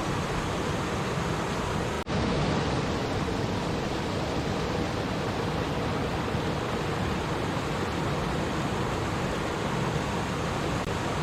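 Stream water flowing and babbling, a steady full rushing noise, with a momentary drop-out about two seconds in.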